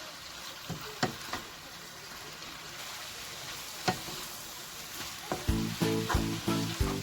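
Food sizzling as it is stir-fried in a pan, with a few sharp clicks of a utensil against the pan. Background music with a steady beat comes in near the end.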